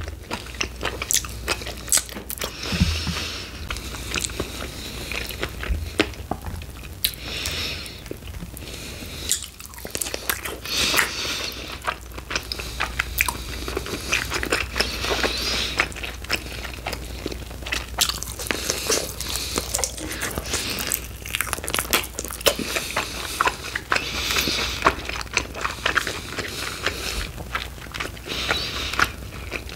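Close-miked biting and chewing of sauced chicken wings, with many sharp crunches and wet mouth clicks.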